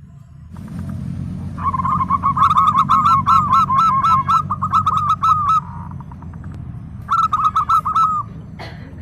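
Zebra dove (perkutut) singing: a long run of rapid cooing notes starting about one and a half seconds in, then a shorter run near the end, over a low steady rumble.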